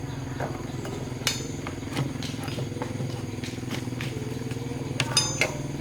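A steady low mechanical hum runs throughout. Metal tools or parts clink sharply over it, about a second in and twice near the end.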